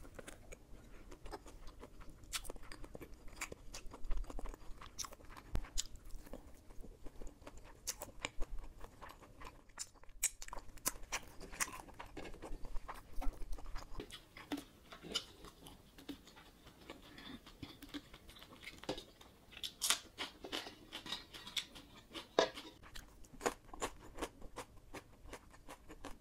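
Close-miked chewing and biting of oven-baked spicy pork ribs, heard as a string of irregular sharp mouth clicks and smacks.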